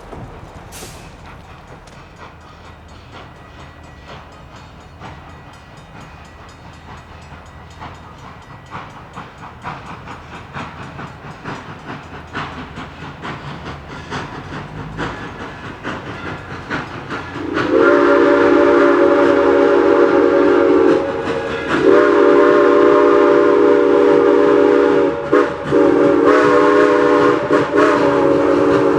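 Steam locomotive CNJ 0-6-0 No. 113 approaching, its running sound with rapid clicking growing louder. About two-thirds of the way in, its chime steam whistle sounds a chord of several tones in long blasts broken by short gaps, in the long-long-short-long pattern of a grade-crossing signal.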